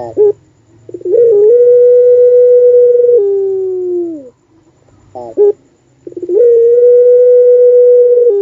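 Puter pelung dove giving its long coo twice: each call opens with a few short broken notes, holds one steady note for about two seconds, then drops to a lower note that falls away.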